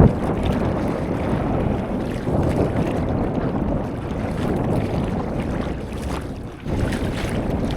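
Wind buffeting the microphone over sea water lapping and splashing around a stand-up paddleboard. The noise swells and eases, with a short lull about six and a half seconds in.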